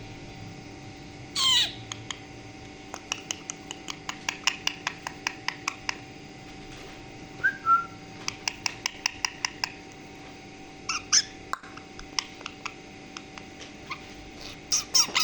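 Pet green parrot calling: a loud screech falling in pitch about a second and a half in, then long runs of short sharp chirps at about three or four a second, a brief whistle, and another loud call near the end.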